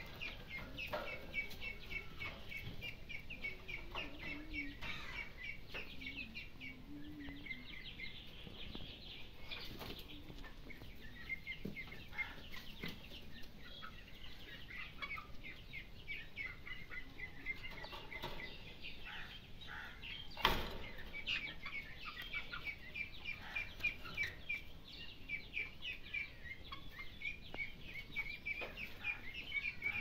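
Birds chirping in long runs of short, high, quick chirps, several a second, with a single sharp knock about twenty seconds in.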